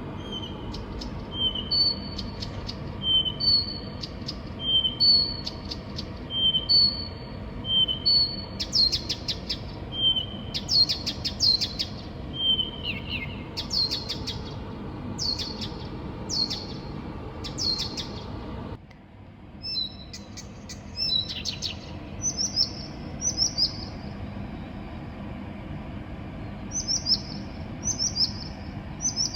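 A songbird singing at night. First it repeats a two-note whistled phrase, one low note then one high, about every second and a half. From about 9 s it switches to rapid clicking phrases and quick downward-slurred whistles. A steady low hum runs underneath.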